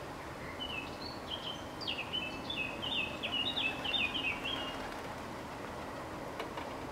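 A songbird sings one fast phrase of short, down-slurred whistled notes lasting about four seconds, over steady outdoor background noise.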